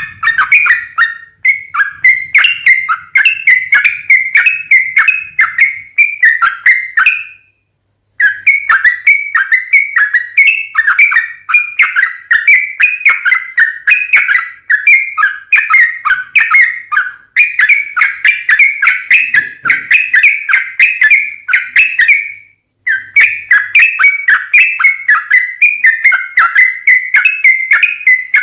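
Yellow-vented bulbul (trucukan) singing: long runs of quick, bubbly chattering notes, about four to five a second, broken by two short pauses, about a quarter of the way in and about three quarters through. It is a lure song meant to set other bulbuls calling.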